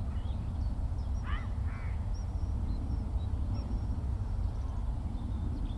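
Open-country outdoor ambience with a steady low rumble underneath. About a second and a half in, a bird gives two short harsh calls, and faint thin high bird notes come and go throughout.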